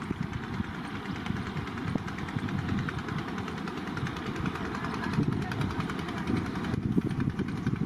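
Train running: a steady rumble with dense clattering texture.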